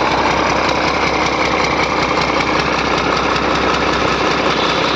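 Six-cylinder engine running steadily at idle moments after being started, having finally caught after a hard start.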